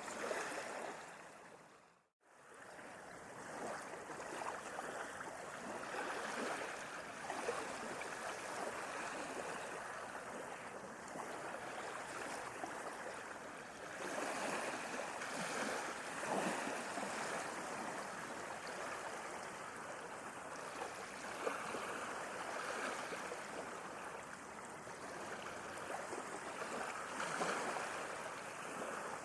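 Sea waves washing and surging in a steady wash of surf, swelling and easing every few seconds. About two seconds in the sound fades out completely for a moment, then rises back.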